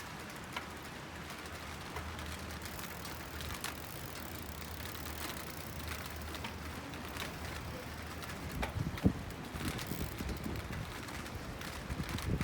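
Steady low rumble and hiss of riding along on a bicycle, with scattered light clicks and a brief knock about nine seconds in.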